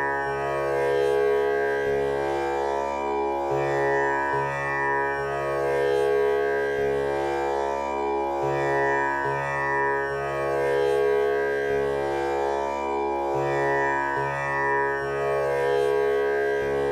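Tanpura drone tuned to C#, the male-voice pitch, with its strings plucked in a slow repeating cycle about every five seconds. The overtones ring on continuously.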